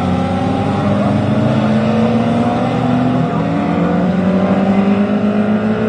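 Several classic racing car engines running hard together, their pitch climbing slowly as they accelerate.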